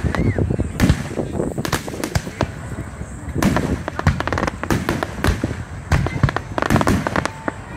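Aerial fireworks shells bursting in quick succession: a dense run of sharp bangs, some coming in quick clusters of small reports.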